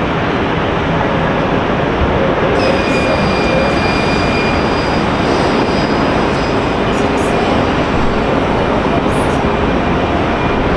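Jet airliner engines running loud and steady, a heavy rush of noise with a thin high whine that comes in about two and a half seconds in and holds.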